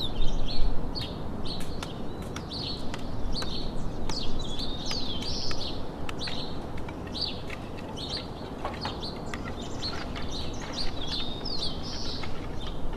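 Small birds chirping steadily in quick, repeated falling calls, with scattered sharp knocks over a steady low background rumble.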